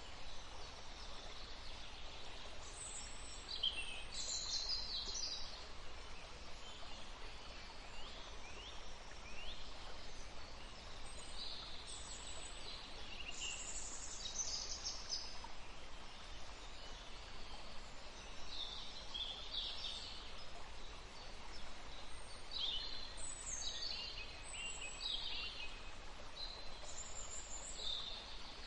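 Several small songbirds chirping and trilling in short high phrases over a steady faint background hiss of outdoor ambience.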